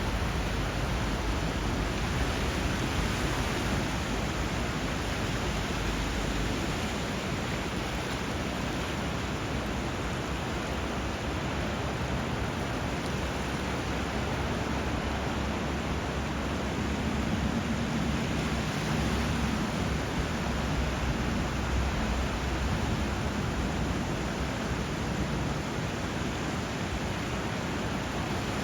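Steady rush of flowing water and surf, an even hiss with a low rumble underneath.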